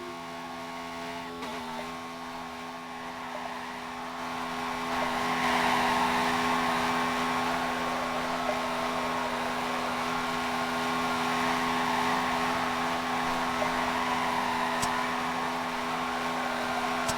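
A motor running steadily: a hum of several fixed tones with a rushing, whirring noise that grows louder about five seconds in and then holds.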